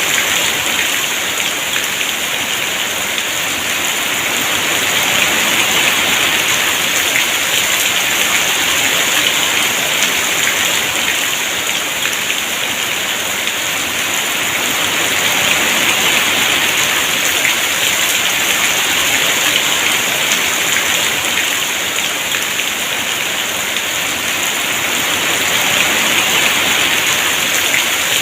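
Heavy rain pouring steadily, a dense hiss of drops on surfaces that swells and eases slightly every several seconds.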